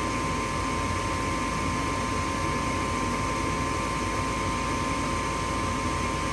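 Goodman gas furnace's draft inducer motor running with a steady hum and a constant high tone. The inducer is cycling on its own without the burner lighting, which the owner takes for a furnace that won't fire.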